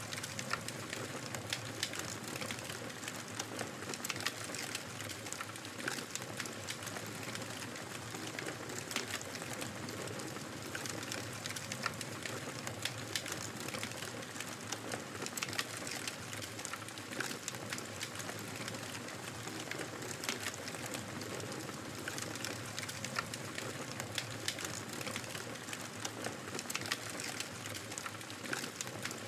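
Wood fire in a fireplace crackling: a steady hiss with frequent sharp pops and snaps.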